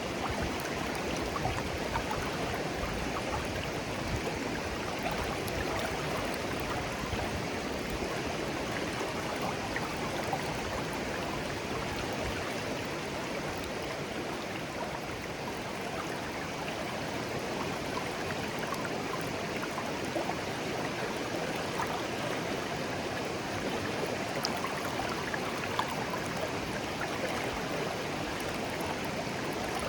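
A shallow clear stream flowing gently, a steady babble of running water with small splashes and trickles.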